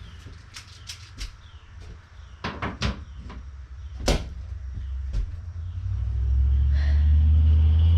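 Scattered sharp clicks and knocks of hand tools and brittle plastic wiring connectors being handled and broken, the loudest about four seconds in. A deep, steady rumble rises from about six seconds in and becomes the loudest sound.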